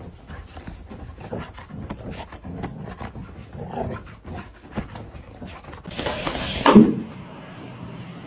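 A dog making short sounds among scattered clicks and knocks, with a louder burst of noise lasting under a second about six seconds in.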